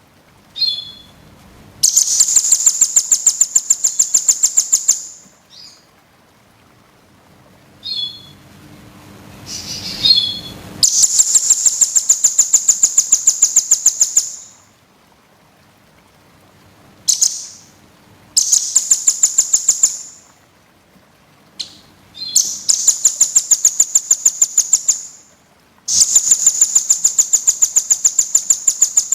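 Small songbird singing fast, high trills, five rapid chattering bursts of roughly two to three seconds each with pauses between, some led in by short sharp chirps.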